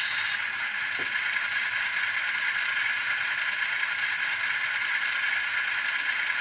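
Model locomotive sound decoder (ESU LokSound Select) playing the diesel prime mover of an N-scale Tier 4 GEVO through its tiny speaker, running steadily after the F8 startup. The sound is thin and mid-pitched, with almost no bass.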